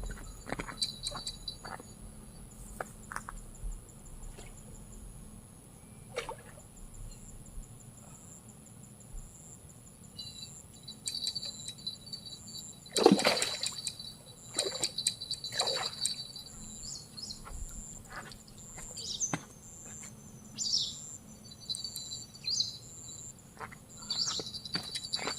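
High, steady chirring of insects that comes and goes in pulsing stretches, with scattered light knocks and one louder thud about thirteen seconds in.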